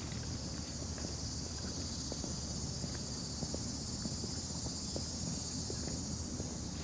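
Steady high-pitched buzz of summer insects, with faint irregular footsteps on a path and a low background rumble.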